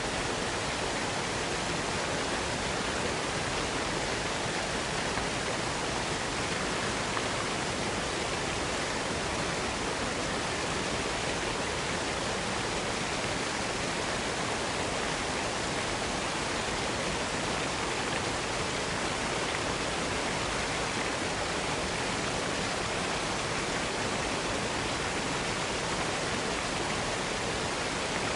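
Waterfall cascade: water rushing steadily without a break.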